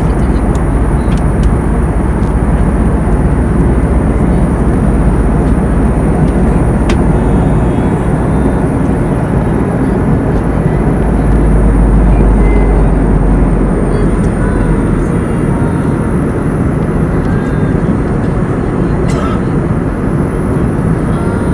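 Steady, loud rush of an airliner's engine and airflow noise heard from inside the cabin in flight, with a thin high whine over it.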